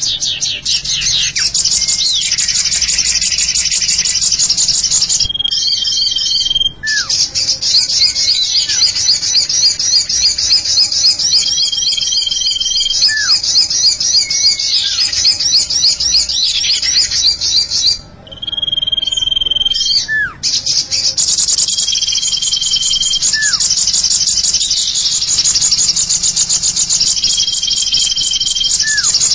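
Bird-lure recording of cipow (cipoh) bird calls: dense, fast, high chirping trills run almost without pause. A steady whistled note of about a second recurs every few seconds, along with short falling whistles, and the trilling breaks off briefly twice.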